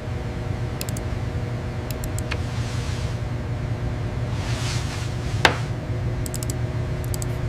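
Steady low mechanical hum with a few faint steady tones over it and scattered light clicks. A brief whoosh is followed by one sharp clank about five and a half seconds in.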